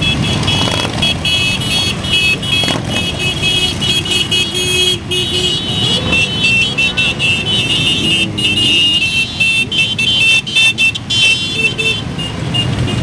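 Motorcycles running in a mass ride, their engines a steady low rumble, with high-pitched tooting in quick repeated blasts above them.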